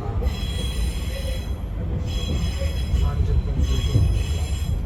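Running noise inside an Izukyu 2100 series train car: a deep steady rumble from the wheels and running gear, with high-pitched ringing wheel squeal rising over it in three stretches.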